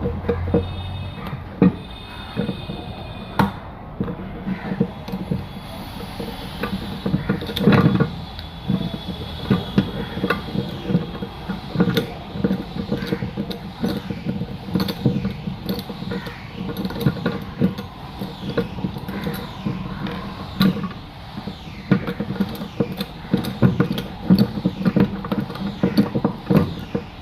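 Hand tools working on a car audio amplifier's metal casing as it is taken apart: irregular clicks, ratcheting, scrapes and knocks of screws and metal parts.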